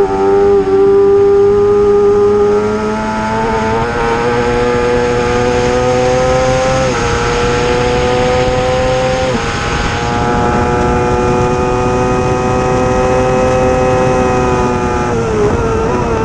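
Racing motorcycle engine at high revs, pulling through the gears: the pitch climbs slowly and drops back sharply at two upshifts, about seven and nine and a half seconds in, then holds nearly steady before falling with downshifts near the end.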